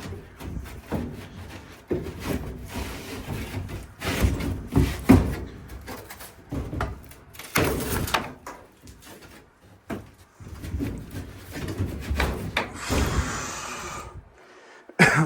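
Irregular knocks, bumps and rubbing of things being handled and moved about in a small room, with a brief hiss just before the end.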